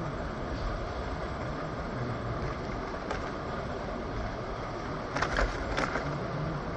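Steady rumble and hiss of a moving vehicle, with two short rattling clatters about five seconds in.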